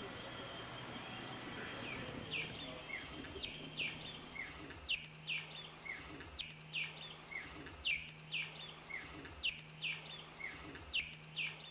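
A bird chirping over and over: short, quick falling chirps, about two or three a second, over a faint low hum.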